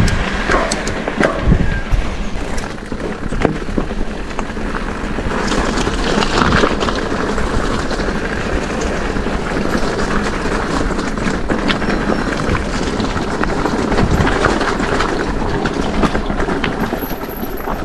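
Mondraker e-bike ridden along a rough track: rolling tyre noise with frequent clicks and knocks from the bike rattling over the ground, and wind rumbling over the action-camera microphone.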